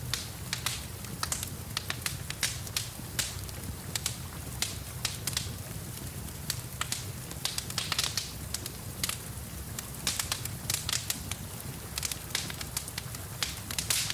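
Wood fire in a fireplace crackling and popping, with irregular sharp snaps several times a second over a steady hiss of rain.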